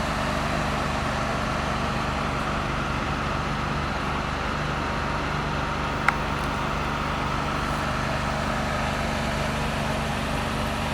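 A steady, even background noise with a low hum, like a running engine or machinery heard at a distance, with a single sharp click about six seconds in.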